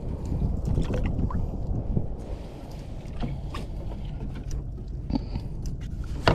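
Steady low rumble of wind and water around a fishing kayak, with a few light knocks and clicks scattered through it and a sharper click at the end.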